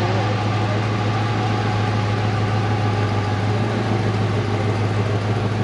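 The engine of a 1961 Chevrolet station wagon idling, a steady, unbroken deep drone.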